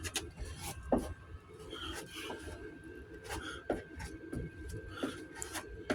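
Short, irregular scraping and rubbing strokes of a spreader working body filler on a truck door panel, over a steady background hum.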